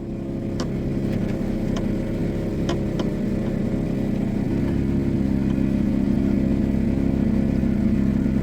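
Engine of a small canal cruiser boat running steadily under way, its level building over the first second, with a few faint ticks.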